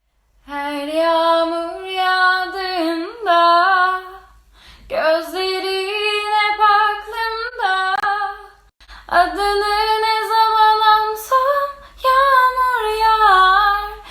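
A woman singing solo without accompaniment, in three long phrases with short breaths between.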